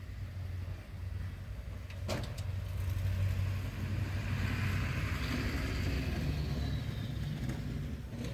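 Snowplow truck driving past: a steady low engine rumble, a sharp knock about two seconds in, then road noise that swells and fades as it goes by.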